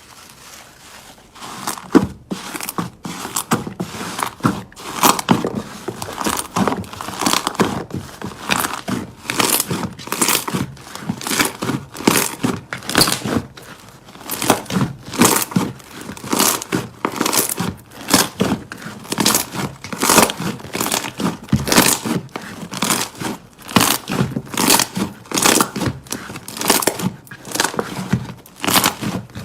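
Slime being squeezed and pressed by hand, making a dense crackling of small pops and clicks that comes in repeated surges, starting about a second in.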